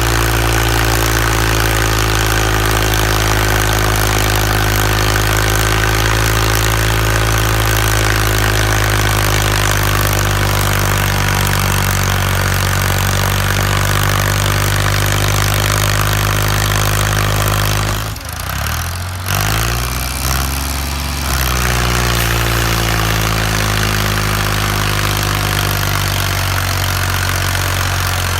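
Ford tractor engine running at a steady speed. About two-thirds of the way through the sound briefly drops away, then the engine note climbs back up to its steady pitch.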